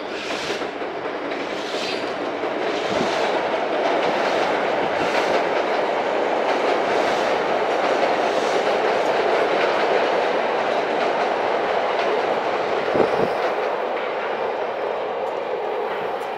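CTA 'L' rapid-transit train passing on elevated tracks: the steady noise of wheels on rail, with regular clacks about once a second as the wheels cross rail joints. It builds over the first few seconds and eases near the end, with one sharp clack about 13 seconds in.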